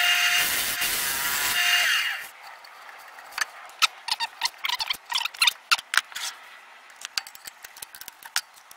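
Wood lathe running with a turning tool cutting into the spinning wet sycamore, the motor's whine stopping about two seconds in. After that, scattered light clicks and rustles of handling.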